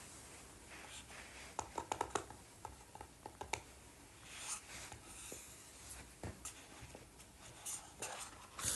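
Small clicks, taps and short scratchy rustles of objects being handled close by, in clusters, with a louder click near the end.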